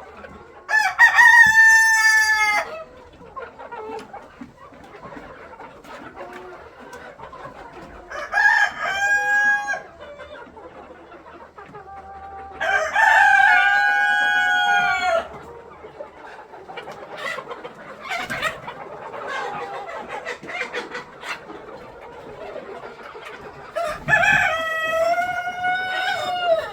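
Roosters crowing four times, each crow about two seconds long, over chickens clucking throughout.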